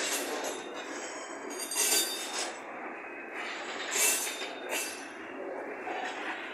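Freight train of covered hopper wagons rolling slowly past, with the steady clatter and rumble of its wheels on the rails. Brief high metallic squeals ring out several times, loudest about two seconds and four seconds in.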